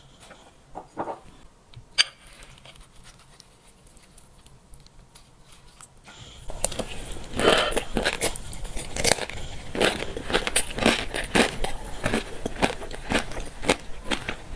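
Close eating sounds of fish roe being chewed: the roe crackling and popping in quick, irregular clicks from about six seconds in. Before that there are a few faint clicks and one sharp click about two seconds in.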